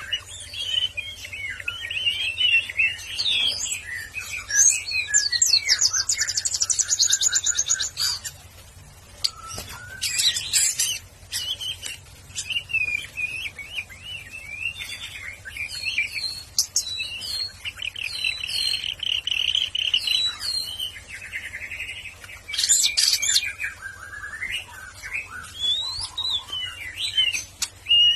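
White-rumped shama (murai batu) singing a long, varied song of whistles, trills and fast chattering runs, phrase after phrase with brief pauses between them.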